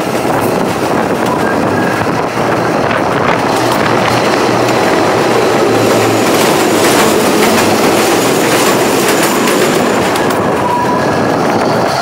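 Kalka–Shimla narrow-gauge train running, heard from a carriage window: a loud, steady rumble of the carriages with wheel clatter on the rails, while the train passes through a tunnel.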